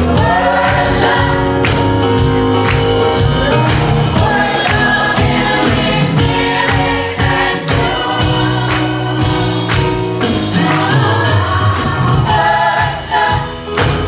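Gospel music: a choir singing over a band with a steady drum beat.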